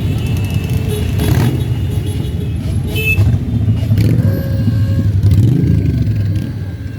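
Many motorcycle engines running as a parade of bikes passes close by, with one revving up about five seconds in.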